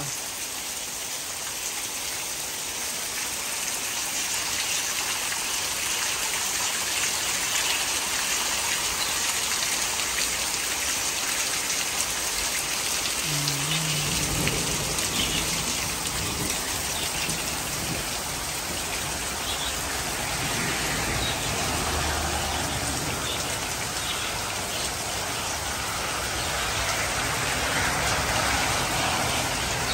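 Heavy rain pouring down steadily and splashing on a patio and garden. The sound grows fuller and deeper from about halfway through.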